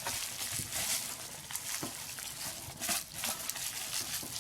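Packaging crinkling and rustling as it is handled, with a run of small crackles and a few sharper clicks, one at about two seconds in and another near three seconds.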